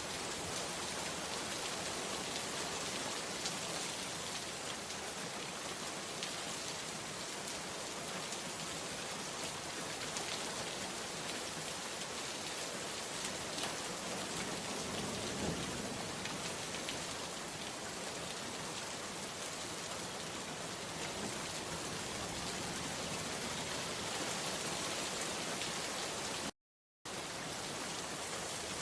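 Steady, dense rainfall pattering on surfaces, an even hiss of many drops. The sound cuts out completely for about half a second near the end, then resumes unchanged.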